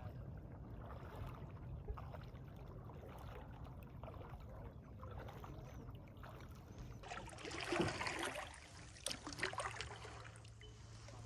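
Kayak paddle dipping into calm lake water, with splashes and drips that grow louder in the second half over a low steady rumble.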